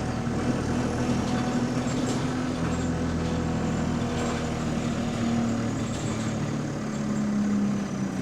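Diesel bus engine and drivetrain heard from inside the passenger saloon while driving: a steady low running note that drifts up and down in pitch as the bus moves. The exhaust leak the bus has is not clearly heard from inside.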